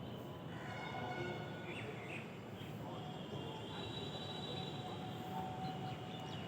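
Outdoor morning ambience: a steady low rumble of distant noise with faint bird chirps and a few thin, high held tones on top.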